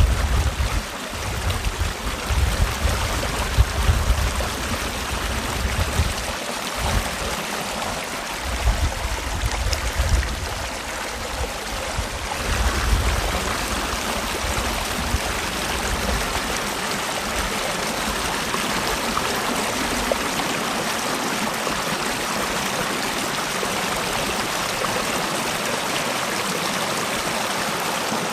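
Mountain stream rushing steadily over rocks in a valley. A deep, uneven rumble sits under it for the first half and dies away about halfway through.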